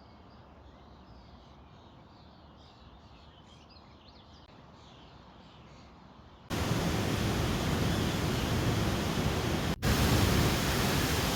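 Faint outdoor ambience with small bird chirps over a low hiss, then about six and a half seconds in a sudden loud, steady rushing noise takes over, broken once by a split-second gap.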